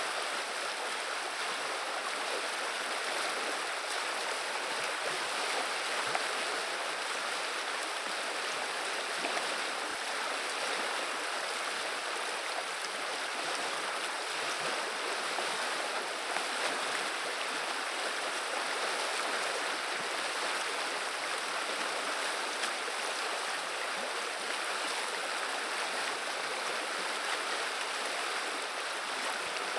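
River water flowing and babbling, a steady even rush.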